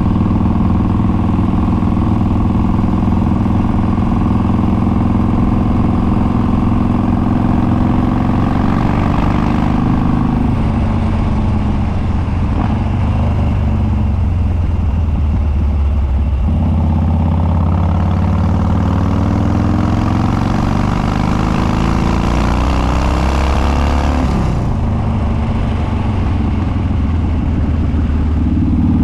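Harley-Davidson Dyna Street Bob's Twin Cam V-twin, Stage 2 with Andrews 48H cams, running through unbaffled upswept dual exhausts. It holds a steady note, then revs rise twice: once from about eight seconds in, and again in a long pull after a sudden drop at about sixteen seconds. Both times it is pulling hard up through the revs. The note falls away abruptly a few seconds before the end and settles back to a steady beat.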